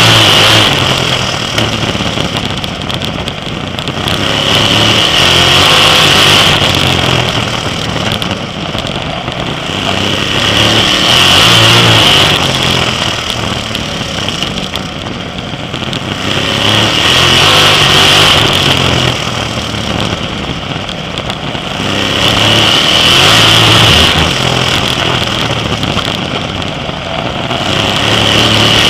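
Sprint car engine at racing speed, swelling loud on each straight and easing off into each turn, in a steady cycle about every six seconds.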